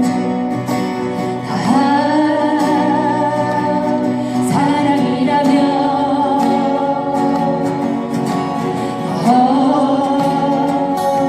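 A live band playing a slow ballad: long held melody notes with vibrato, each sliding up into a new phrase, over guitar accompaniment.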